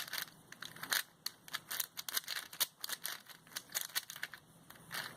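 Wuque 4x4 speed cube being turned by hand: a quick, irregular run of plastic clicks and clacks as its layers are turned.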